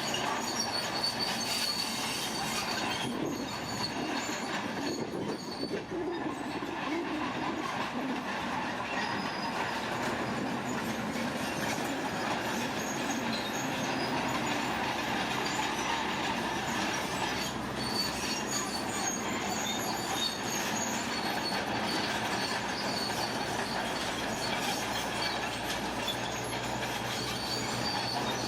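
Heavy earthmoving machinery working steadily: dense engine and mechanical noise with a faint high whine over it.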